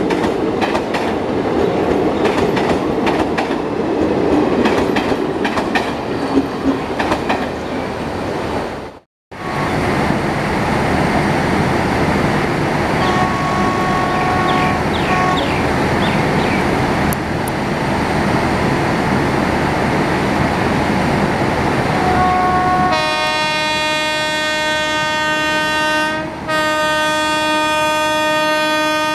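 Passenger train coaches running past at speed, wheels clattering rhythmically over the rail joints. After a cut, an approaching WAP-7 electric locomotive sounds its horn: a few short notes, then a loud long blast of about six seconds with one brief break.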